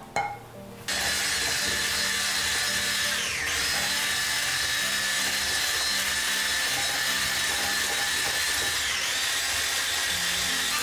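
An electric kitchen appliance motor, such as a blender or food processor, starts after a click about a second in and then runs at a steady high speed with a whine. Soft background music plays underneath.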